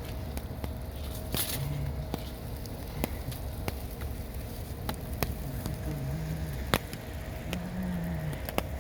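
Rain and wet snow ticking in scattered sharp hits over a steady low rumble of wind.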